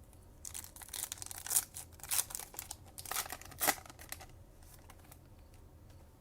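Foil wrapper of a Topps Chrome baseball card pack being torn open and crinkled: a run of sharp crackles and tears lasting about four seconds.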